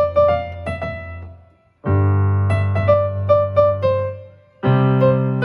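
Electronic keyboard with a piano voice playing a short melody over a held low bass note. The phrase dies away and is started again twice, the same few notes each time, as a beginner repeats it.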